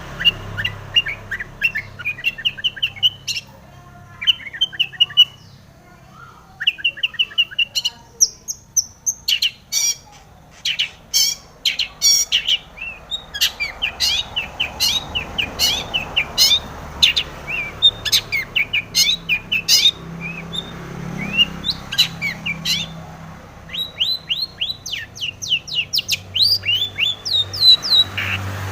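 Long-tailed shrike (cendet) singing a fast, varied song of rapid chirps, short trills and sharp high notes, packed with mimicked calls of other birds.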